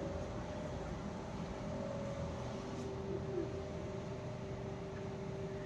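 Steady mechanical hum: two constant tones over a low rumble and hiss, from a machine running continuously.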